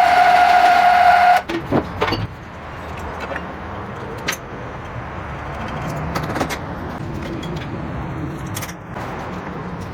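A machine tool's steady high whine that cuts off suddenly about a second and a half in. A few sharp clicks and knocks follow over a low mechanical hum.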